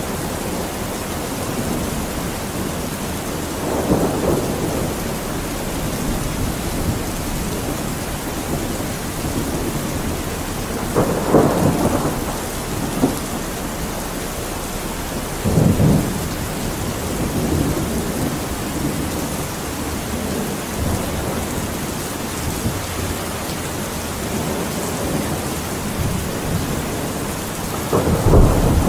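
Steady heavy rain with thunder rumbling several times, the loudest rolls about 11 and 15 seconds in and a bigger one building at the very end.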